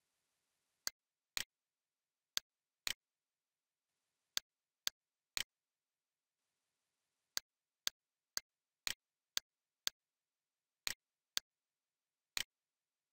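Computer mouse button clicks, sharp and isolated, in runs of about two a second, several of them quick double clicks.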